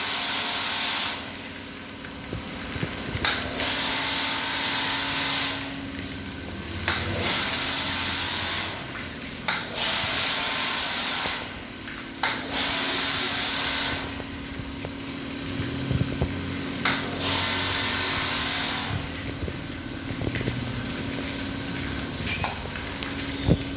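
Car-wash pressure washer spraying water in repeated bursts of a second or two, a loud hiss that starts and stops, over the steady hum of its running pump motor. A couple of sharp clicks come near the end.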